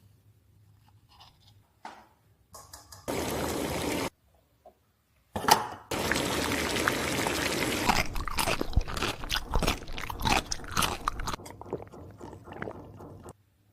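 Toy packaging crinkling and small plastic toy kitchen pieces clicking and clattering as the playset is unboxed. The sound comes in separate stretches that start and stop abruptly, with the clicks thickest in the second half.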